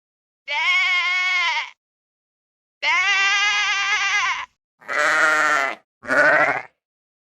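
Four bleats with a quavering pitch, the first two long and the last two shorter, the last one rising in pitch.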